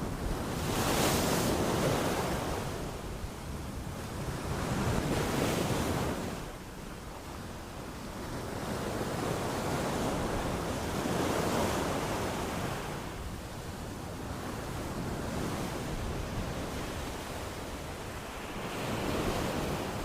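Ocean waves washing onto a shore, each one a rushing surge that swells and fades. Several waves come in a few seconds apart.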